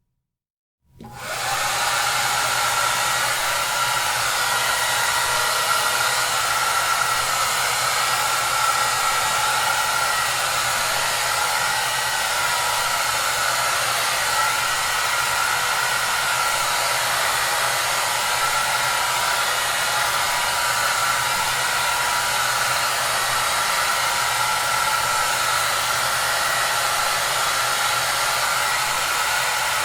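Hair dryer running steadily: an even rushing of air with a low motor hum and a faint steady whine. It starts about a second in, after a moment of silence, and then holds unchanged.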